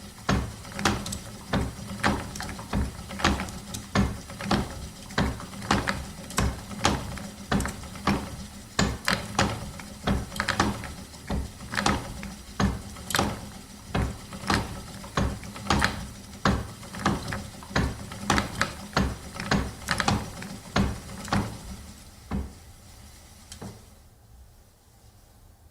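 Antique wooden spinning wheel turning, with rhythmic wooden clicks and knocks about one to two times a second over a low steady hum. It fades out near the end.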